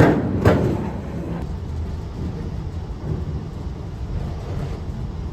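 Heavy sawmill machinery running with a steady low rumble, with two loud knocks about half a second apart near the start.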